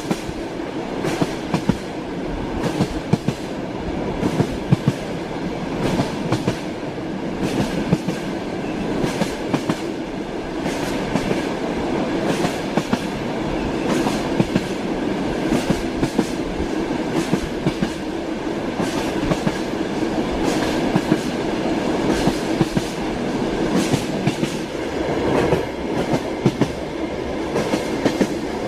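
Train wheels clacking over rail joints as the carriage rolls along at speed, many sharp knocks over a steady rumble of the running train, heard from inside the carriage.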